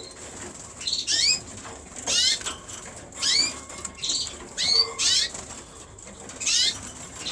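Young cock canaries in their cages calling and singing in short bursts: quick high chirps that sweep in pitch, coming about once a second.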